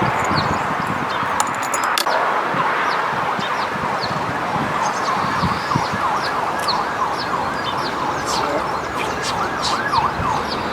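A dense chorus of many birds calling, with overlapping short chirps and squawks keeping up a constant din.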